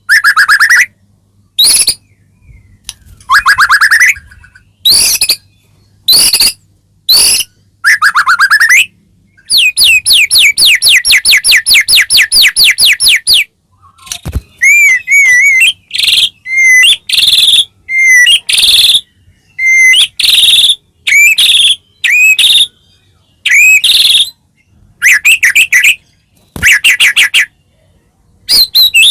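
White-rumped shama (murai batu) singing loudly and without pause, in short varied phrases of rapid trills and clear whistled notes that rise and fall. Partway through comes one long, fast trill lasting about four seconds. It is the full 'gacor' song that is played to provoke other shamas into singing.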